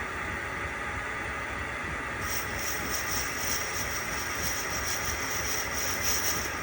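Metal lathe running steadily while turning a brass-sized model-engine cylinder cap, with a higher hiss joining about two seconds in.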